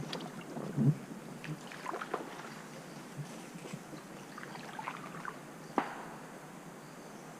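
Water splashing and lapping around an inflatable river raft, with a louder splash about a second in and scattered short paddle splashes and knocks after it.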